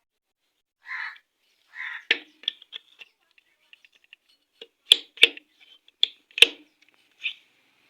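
Metal motorcycle engine parts clinking and knocking against one another as the clutch housing is handled and fitted during engine assembly. The sound is a run of sharp taps, with the loudest few between about five and six and a half seconds in.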